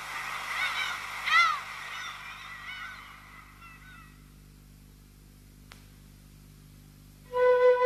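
Birds calling overhead: a series of short rise-and-fall calls that fade away over about four seconds. Near the end a flute note comes in loudly.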